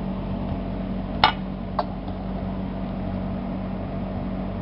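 Two short clinks of a utensil against the mixing vessel while kebab mixture is stirred, the first louder, over a steady low hum.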